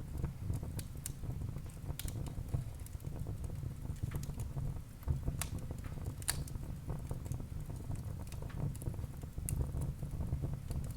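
Wood fire burning in a fireplace: a steady low rumble of the flames with irregular crackles and sharp pops of the burning logs.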